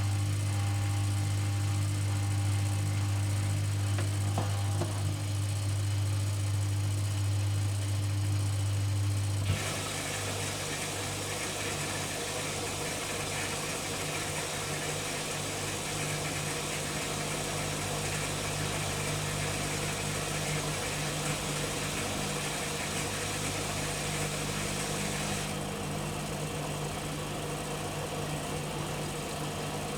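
AEG Öko-Lavamat 85769 front-loading washing machine running mid-cycle. A steady low hum changes abruptly about nine and a half seconds in to a broader whooshing machine noise as the machine moves to another stage of its 60°C coloureds programme.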